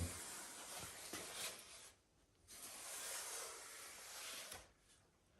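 Two stretches of faint hissing, rubbing noise, each about two seconds long, as foam insulation is packed into a gap in the garage door.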